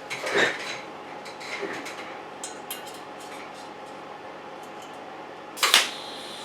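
Metal parts clinking and clattering as they are handled, in scattered short knocks, with one loud clank near the end followed by a steady high-pitched hum.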